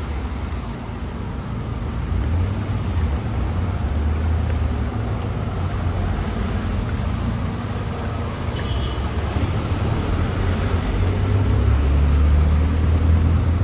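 Outdoor street ambience dominated by a low, fluctuating rumble that swells twice, once a few seconds in and again near the end.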